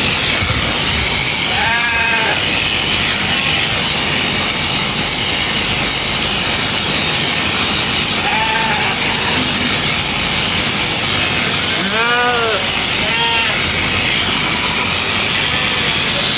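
Sheep bleating four times in short calls over a steady loud buzz of electric sheep-shearing clippers.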